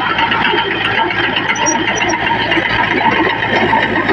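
Heavy diesel machinery running steadily, a constant engine hum under a dense mechanical noise.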